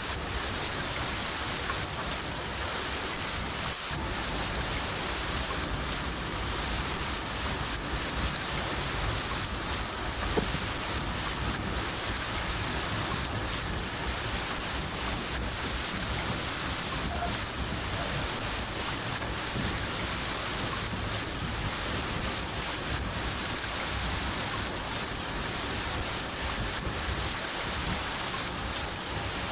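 Crickets chirping in a steady, even rhythm, about two to three high chirps a second, over a steady hiss of rain.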